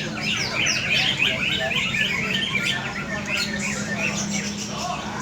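Many cucak ijo (green leafbirds) singing at once in rapid, overlapping chirps and trills, over a steady low hum.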